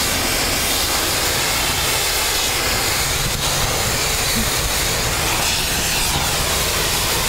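Pressure washer spraying low-pH presoak truck-wash solution onto a trailer, a steady hiss of spray over the low drone of the machine's engine.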